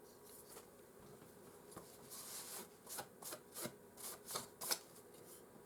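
A quick run of short rubbing and scraping strokes, about eight of them over a few seconds, from PS4 console parts being handled and worked loose during disassembly.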